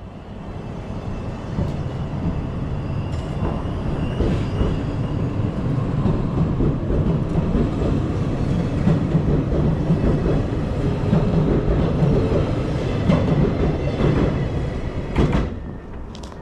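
Limited express train running on the rails, a steady low rumble that builds over the first few seconds, with a sharp knock about fifteen seconds in.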